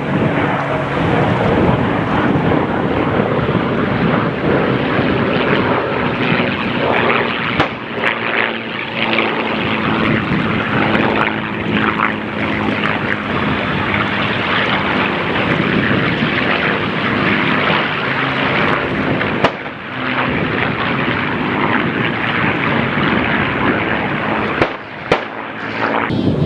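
Piston-engined warbirds (a B-17, a B-25 and P-51 Mustangs) flying low passes, their propeller engines droning loud and steady, with brief dips in the sound a few times.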